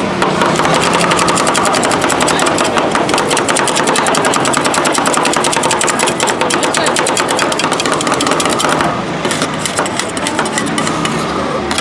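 Metal spatulas rapidly chopping banana and strawberry on the frozen plate of a rolled ice cream stand: a fast, steady run of metallic taps, many a second, that thins out about nine seconds in.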